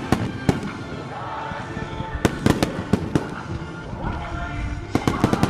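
Starmine fireworks shells bursting in sharp cracks, some single and some in rapid clusters of several about two seconds in and again near the end, over music played for the display.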